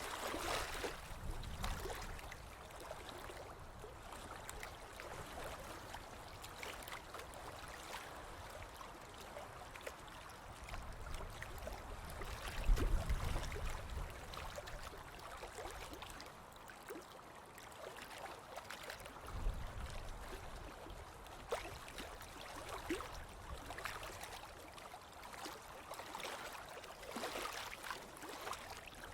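Ocean waves washing onto a beach, the surf noise swelling and ebbing, with a deep rumble about thirteen seconds in, the loudest moment, and again near twenty seconds.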